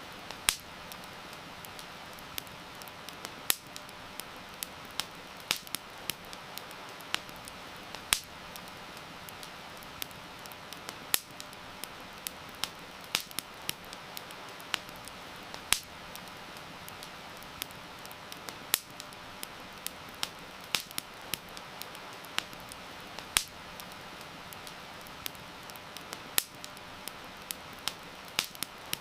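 Wood fire crackling, with frequent irregular sharp pops and snaps over a steady hiss of falling rain.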